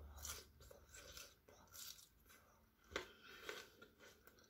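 Faint chewing and mouth sounds of a cherry tomato being eaten with the lips closed, with one sharper click about three seconds in.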